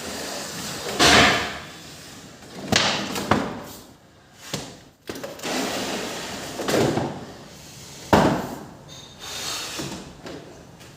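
Household kitchen handling sounds: a series of knocks, bumps and scrapes, with the loudest knocks about a second in and about eight seconds in.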